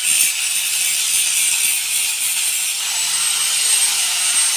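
Angle grinder grinding down welds on a metal frame: a steady, loud, hissing grind over the motor's hum.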